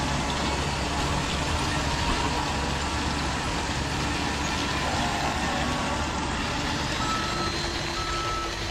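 RC model construction trucks running steadily, with a truck's reversing beeper giving a few short high beeps near the end.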